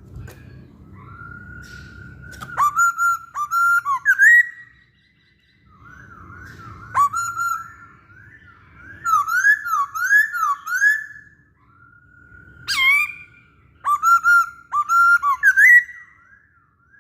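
Masked laughingthrush singing in three bouts of loud, clear whistled phrases, with sharp slurred notes and short pauses between them.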